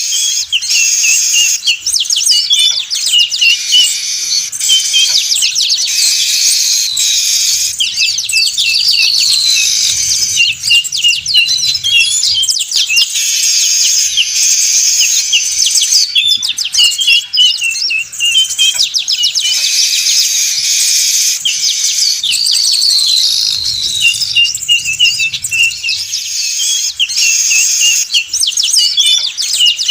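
A noisy flock of weaver birds (manyar) chattering, with dense overlapping high chirps and trills and now and then a falling trill. It is a looped lure recording for trapping: the same passage comes back about every 16 seconds.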